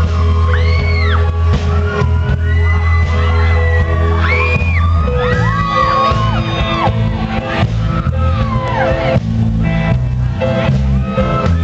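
Rock band music: a steady heavy bass line under held chords, with high sliding, arching melody lines and shouted whoops over the top.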